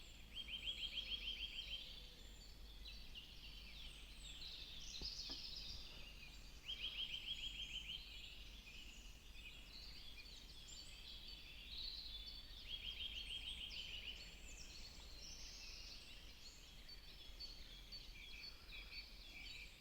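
A chorus of songbirds chirping and singing, with one bird repeating a fast, even trill about a second and a half long three times, roughly every six seconds.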